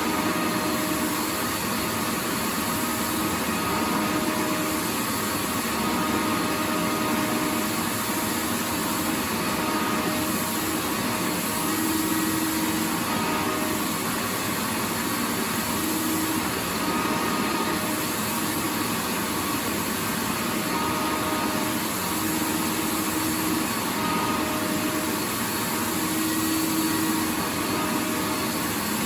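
Vacuum cleaner running continuously: a steady rushing hiss with a faint hum that fades in and out.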